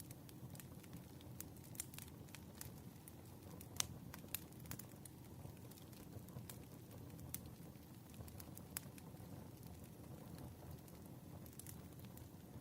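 Wood fire burning: a soft low rumble with scattered crackles and pops, one louder pop about four seconds in.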